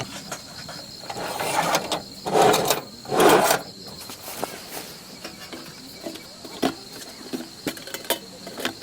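Insects trill steadily in the background in one unbroken high tone. Over it come three short rushing noises in the first few seconds, from food being handled and prepared, then scattered light clicks and knocks.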